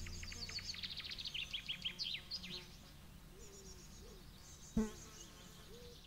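Wild birdsong: a quick run of descending chirps for the first two and a half seconds, then high trills and some lower sliding calls, with a single sharp knock near the end. Background music fades out at the start.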